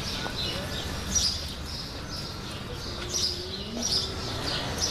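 Small birds chirping, many short high chirps repeated and overlapping.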